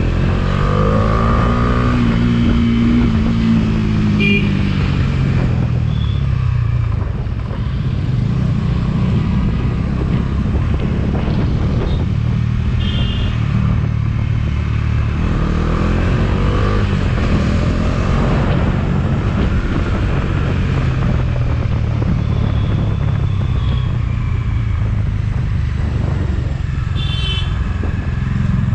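Motorcycle engine running on the move, its pitch rising and falling with the throttle and gear changes, over steady low wind and road rumble. A few short horn beeps sound, the clearest near the end.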